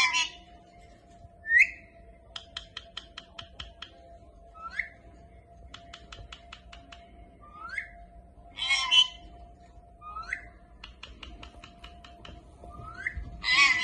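Indian ringneck parakeet calling in a repeating sequence: a rapid train of clicks, then a short rising whistle, over and over. Three louder, harsher calls come at the start, about nine seconds in and near the end.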